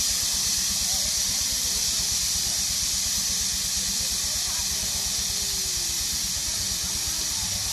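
Steam traction engine hissing steadily, with a fast, even low throb underneath.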